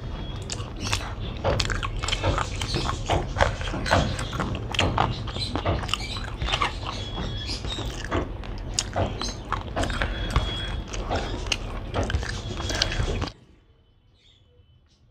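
Close-miked chewing of rice and chicken curry, with many sharp wet mouth clicks. The chewing cuts off suddenly about 13 seconds in, leaving near quiet.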